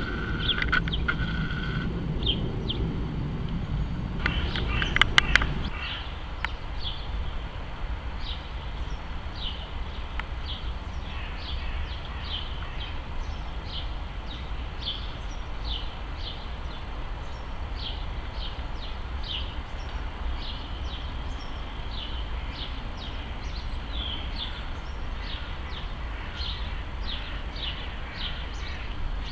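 A small bird calling over and over, short high chirps about once a second, over a steady low rumble. In the first few seconds a lower hum is heard with a few sharp clicks; it stops about six seconds in.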